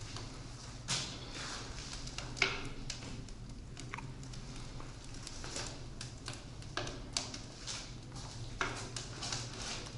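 Scattered, irregular knocks and clicks, a few seconds apart, over a steady low hum.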